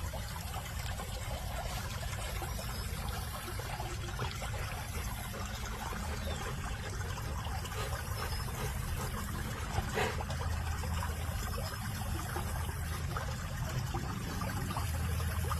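Valley stream water trickling and running steadily, with one brief faint sound about ten seconds in.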